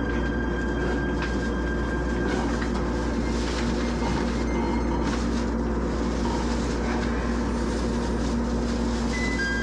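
Steady cabin noise inside a JR East E127-series electric train as it slows to a stop: a low hum and rumble, with a thin high tone that ends about two seconds in.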